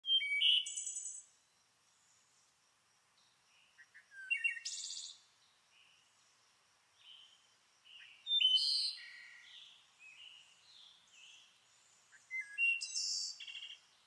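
Bird ambience: songbirds singing, with four loud, bright, high chirping phrases about four seconds apart and softer chirps in between.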